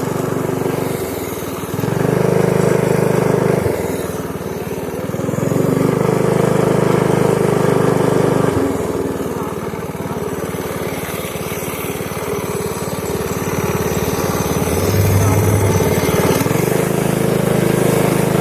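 Pit bike's small single-cylinder engine running as it is ridden, its note stepping up and back down several times, with louder stretches about two, six and sixteen seconds in.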